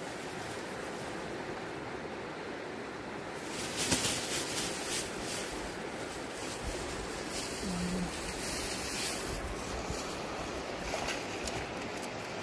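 Fast-flowing river water rushing steadily, growing a little louder about four seconds in, with a few short sharp knocks or splashes.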